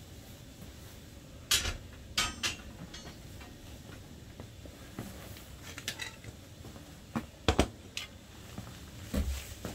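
Metal objects being handled: a scattering of separate clinks and knocks, a few seconds apart, the two strongest about a second and a half in and about seven and a half seconds in.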